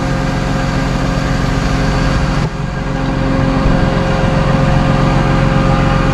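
Vehicle engine idling steadily, with a steady tone running over it. The sound dips briefly about two and a half seconds in, then carries on a little louder.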